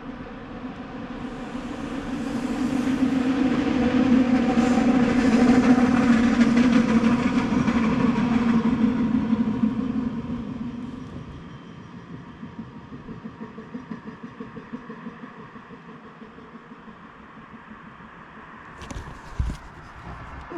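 A train passing: the rumble swells over a couple of seconds, stays loud with a steady low tone for several seconds, and fades about ten seconds in to a faint, regular clatter of wheels. A few sharp knocks near the end.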